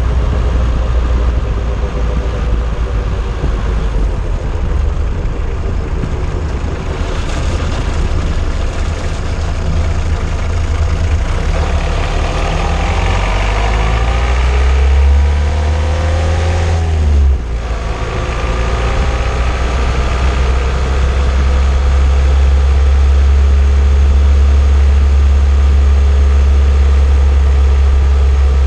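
An old car driving, heard from a camera mounted under it on the anti-roll bar: a heavy low rumble of road noise with the engine running beneath it. About halfway through, the engine note climbs for a few seconds, then drops off abruptly, and the sound settles into a steady drone.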